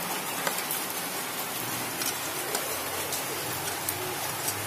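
Rain falling steadily, an even hiss with scattered light ticks and drips.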